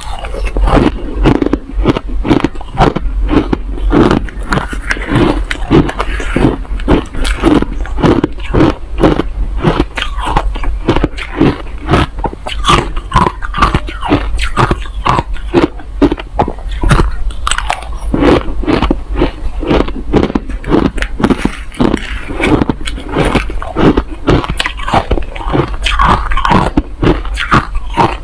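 Someone biting and chewing crushed ice close to the microphone: rapid, hard crunches, about two or three a second, over a steady low hum.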